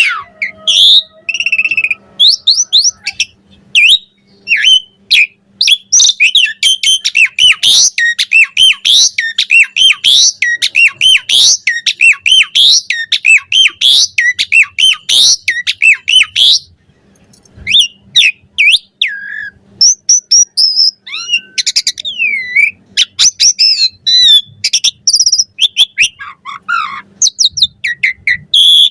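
Asian pied starling (jalak suren) singing a long, varied song of whistles and fast chattering notes, with a short pause about seventeen seconds in.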